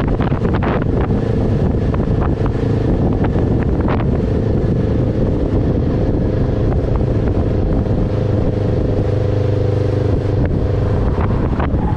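Steady engine and road noise of a car driving, with a few light clicks.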